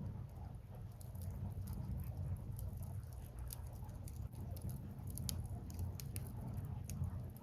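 Burning firewood crackling, with many small, irregular pops over a steady low rumble.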